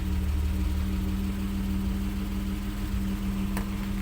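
BMW E34's engine idling steadily, freshly started by remote from the alarm key fob. There is a faint click near the end.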